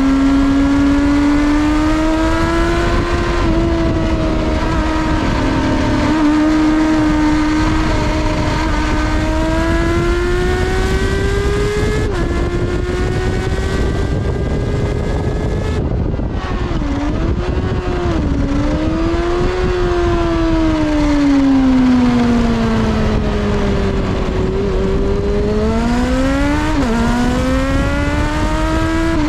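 Kawasaki ZXR400's inline-four engine pulling hard at high revs on track. Its pitch climbs through the gears with a short drop at each upshift. About halfway through it falls off the throttle, with quick rev blips on the downshifts, then climbs hard again.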